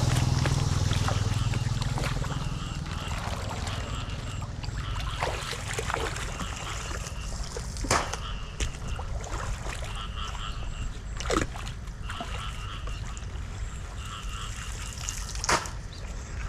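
Floodwater trickling and splashing at a street drain, with three sharp splashes or knocks spaced a few seconds apart.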